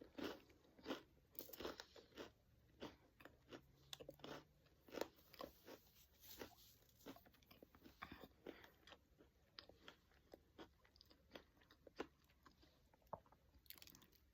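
Close-up chewing of a caramel-dipped pretzel rod: soft, irregular crunches as the hard pretzel is bitten and chewed.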